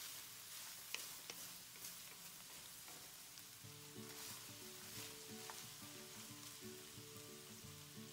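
Ground pork sizzling and frying in a stainless steel wok as a wooden spatula stirs it, with a few light clicks of the spatula against the pan.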